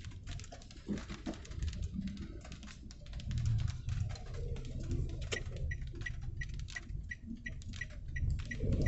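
Light rain pattering and dripping, with a rapid, regular high-pitched ticking, about three or four a second, starting about halfway through.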